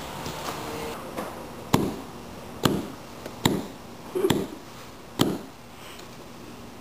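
Five sharp knocks, a little under a second apart, each with a short low thud.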